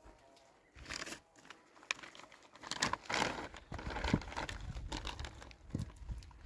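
Plastic sheeting crinkling and rustling in irregular bursts as it is handled, quiet at first and busier after about three seconds.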